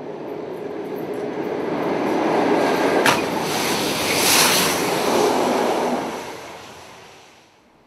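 Class 73 electro-diesel locomotives and rail head treatment train wagons passing close by on a steel viaduct: the rumble of the wheels builds, peaks with a sharp knock about three seconds in as the tank wagons go past, then fades and cuts off near the end.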